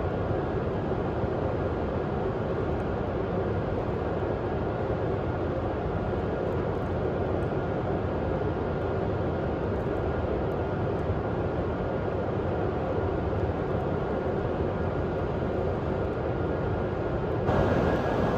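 Steady whirring hum of a W7-series Shinkansen train standing stopped, its onboard equipment running, with a faint steady high tone. The sound steps up slightly just before the end.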